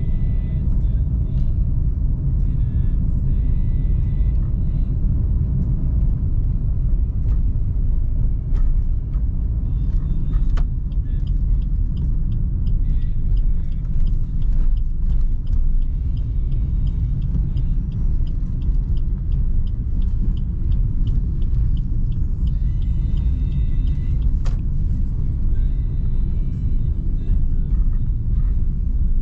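Car driving through city traffic: a steady low rumble of engine and road noise, with faint high-pitched tones coming and going several times and a few light ticks.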